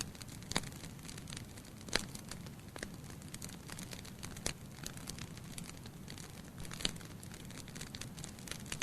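Wood fire burning in a fireplace: logs crackling and popping irregularly over a steady low hiss, with a few louder pops about half a second, two, four and a half, and seven seconds in.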